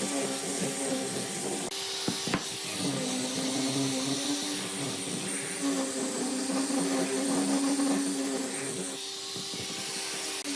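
An electric power tool running steadily on wood or epoxy, its hum wavering slightly in pitch, with a sharp click a little over two seconds in.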